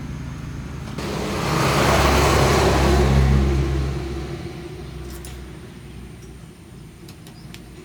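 A motor vehicle drives past: its noise and low rumble swell up about a second in, peak, then fade away over the following seconds. A few faint ticks follow near the end.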